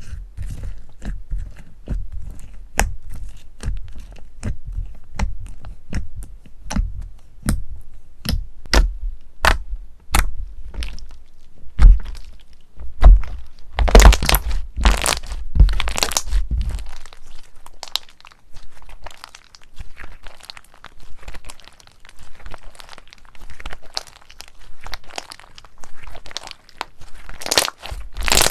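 Crunchy slime being squeezed and worked by hand: a quick run of sharp crackles and pops, with heavier crunching about halfway through and again near the end.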